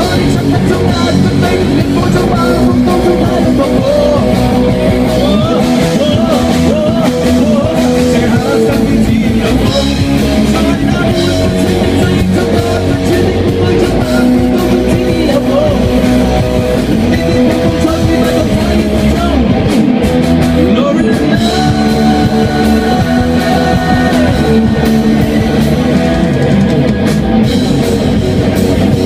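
Rock band playing live, with guitar and drum kit, loud and continuous.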